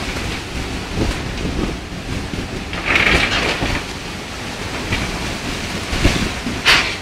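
Wind buffeting the microphone over a steady low rumble and hiss of the sea, as a ship heads out to sea. There are louder hissing rushes about three seconds in and again near the end.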